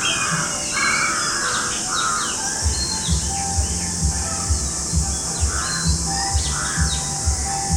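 Birds chirping and calling with short, repeated notes and quick rising calls, over a steady high hiss. Background music with a low beat of about two thumps a second comes in a little under three seconds in.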